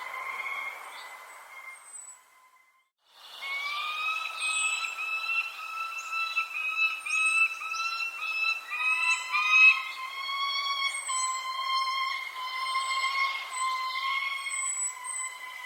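Birds singing: a long, slightly wavering run of linked whistled notes under short, high, thin chirps. The sound cuts out briefly about two seconds in, then comes back.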